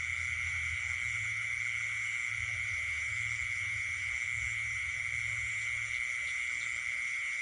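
Night chorus of frogs and insects, led by a steady, unbroken high-pitched insect trill. A low pulsing hum underneath stops about six seconds in.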